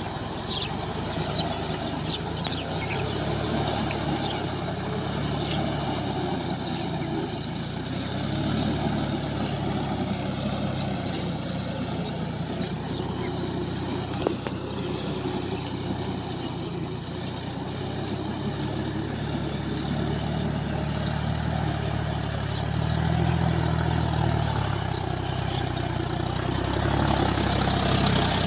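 Large farm tractor's diesel engine running steadily, its note shifting a little up and down, growing louder in the last few seconds, with one sharp click about halfway through.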